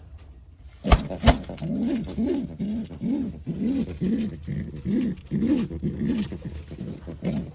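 Racing pigeon cooing in a steady run of low, rising-and-falling coos, about two a second. Two sharp clicks come just before the cooing starts, about a second in.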